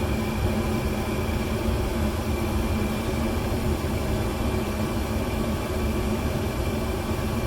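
Gas furnace running steadily with its burner lit: an even hum with a faint steady high tone. It keeps running instead of cutting out, a sign that the freshly cleaned flame sensor is now proving the flame.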